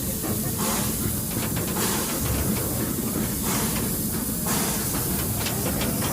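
Steam locomotive running, with a steady hiss and recurring bursts of louder steam hiss.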